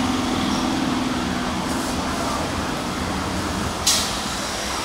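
Electric multiple-unit local train rolling slowly into the platform as it arrives: a steady rumble with a low hum, and a short sharp noise about four seconds in.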